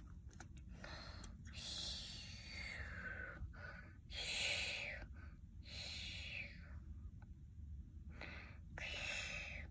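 A child's breathy exhales and sighs, several in a row about a second apart, one sliding down in pitch.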